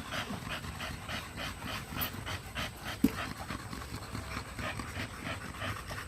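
A dog panting quickly and steadily, about three breaths a second, with one sharp click about three seconds in.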